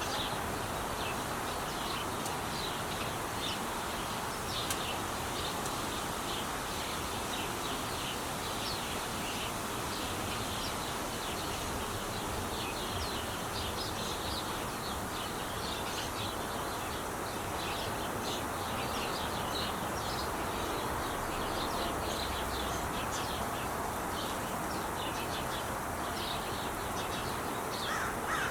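Steady traffic noise from the Interstate 5 freeway, with small birds chirping busily over it in short, high notes.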